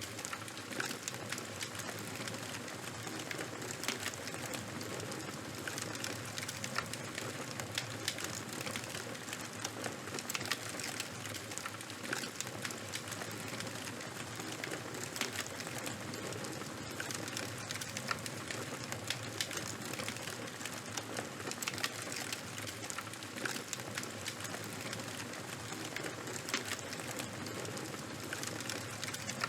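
Fire crackling: a steady hiss with dense, irregular small pops and snaps.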